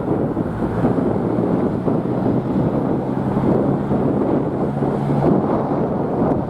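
Strong gusty wind buffeting the microphone in a dense, uneven rumble. A faint, steady low hum runs under it from about two seconds in to just past five.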